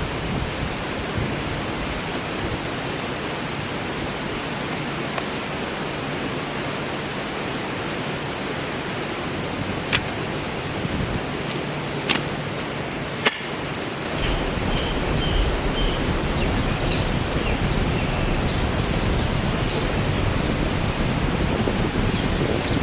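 Steady rush of water noise, such as heavy rain or a stream, with three sharp clicks in the middle. From just past halfway a low rumble rises underneath, and short high chirps come and go.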